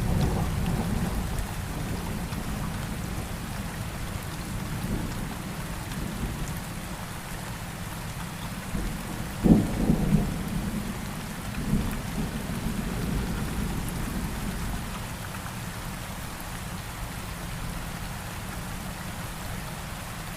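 Steady rain with thunder: a low rumble that eases over the first seconds, then a sharp thunderclap about halfway through, followed by two smaller rumbles.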